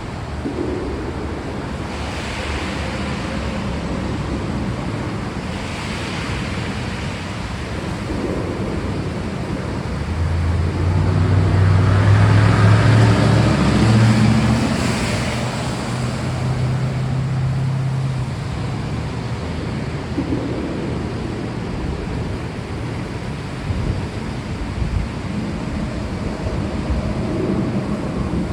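Steady rain. A low rumble of thunder swells about ten seconds in and fades away by around eighteen seconds.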